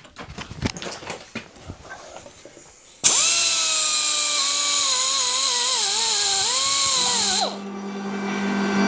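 Handheld electric power tool run in one burst of about four and a half seconds, its motor pitch wavering as it is loaded against the work, after a few seconds of scattered clicks and knocks from handling metal parts. When it cuts off a steady low hum is left.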